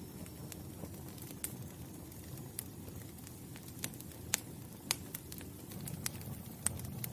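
Wood fire crackling: a steady low rush of flames with a dozen or so sharp, irregular pops and snaps, the loudest a little past the middle.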